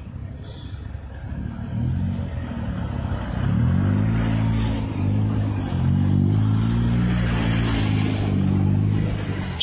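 Modified Honda Civic sedan's engine and exhaust running at low revs as it rolls slowly past at close range. A low drone swells about three and a half seconds in and holds, rising and falling slightly in pitch, until near the end.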